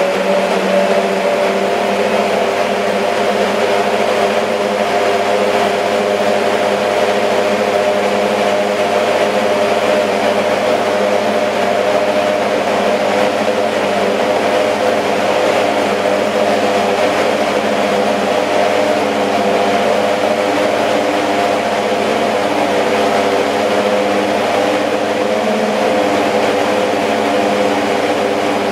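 Lexus SC430 GT500 racing car's V8 engine idling steadily on warm-up just after a cold start, its pitch settling slightly in the first seconds and then holding even.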